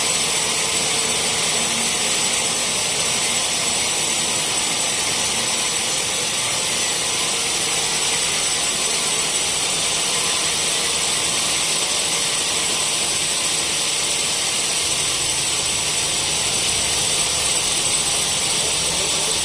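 Sawmill saw running steadily, a constant high-pitched hiss that holds at one level throughout.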